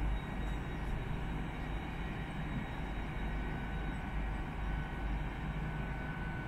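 GWR Hitachi Intercity Express Train standing at the platform with its diesel engines running: a steady low rumble with a faint high whine over it.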